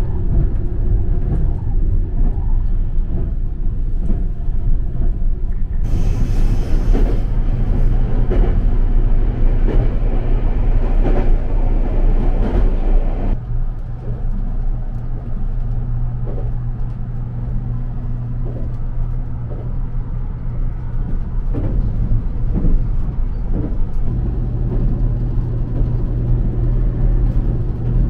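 Running noise inside a JR Kyushu 787-series electric express train under way: a steady low rumble and hum with wheel-on-rail noise. A hiss joins about six seconds in and drops away about thirteen seconds in, where the noise gets a little quieter.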